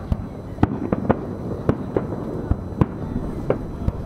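Fireworks shells bursting: an irregular string of sharp bangs, about ten in four seconds.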